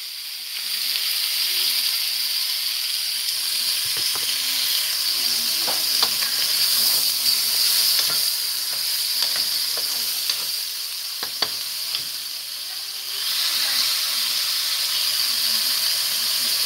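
Chicken pieces and onion sizzling as they fry in a pot, with a steady hiss and a few sharp clicks partway through.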